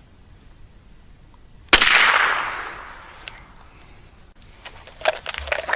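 A single shot from a suppressed 9mm firing a CCI 9mm Luger shot shell, a sharp crack about two seconds in that dies away over about a second. The light shot-shell load does not cycle the action. A few small clicks follow near the end.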